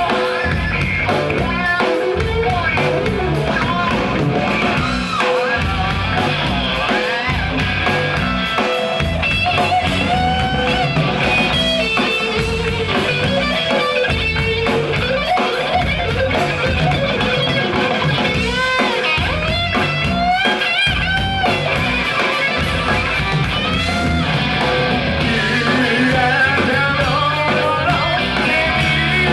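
Rock band playing live, with electric guitar to the fore: a lead line with wavering, bending notes over a steady, loud band.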